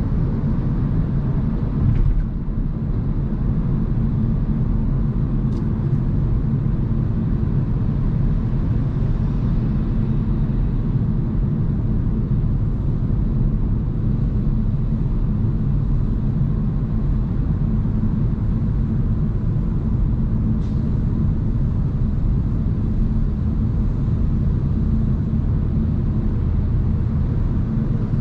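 Steady low road and tyre rumble of a Hyundai Kona Hybrid driving, with a brief knock about two seconds in.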